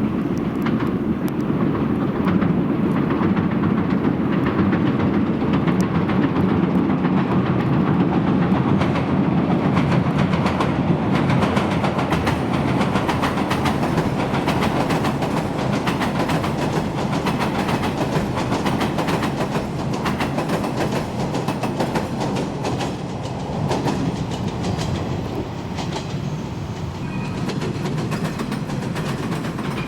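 Electric commuter train running across a railway bridge, with a continuous rumble and dense clatter of wheels over the rails.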